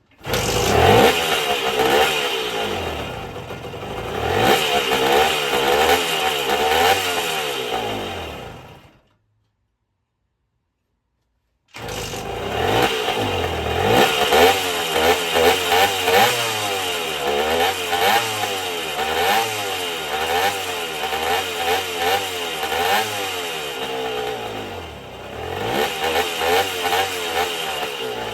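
1974 Indian SE74's Minarelli P4-70 two-stroke single running after about 30 years of sitting, its revs rising and falling unevenly as the throttle is worked on a freshly rebuilt carburettor. The sound breaks off into dead silence for about three seconds near the middle, then the engine is running again.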